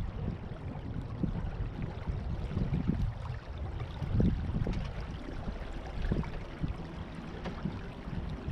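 Water washing and gurgling along a small sailboat's hull under way, with wind rumbling unevenly on the microphone.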